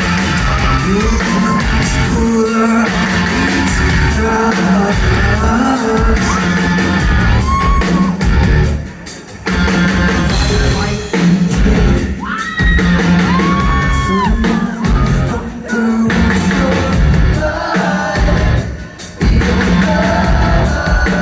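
Live rock band playing loudly with a singer's sung and shouted vocals, heard in a room's reverberation. The music drops away briefly about nine seconds in and again near the end.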